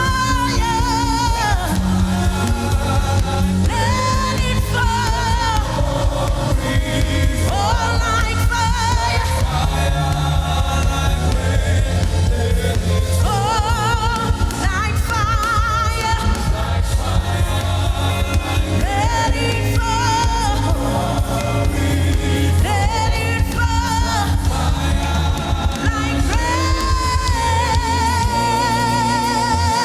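Gospel worship music: a lead singer sings drawn-out phrases with vibrato over a band with a steady bass line, holding one long note near the end.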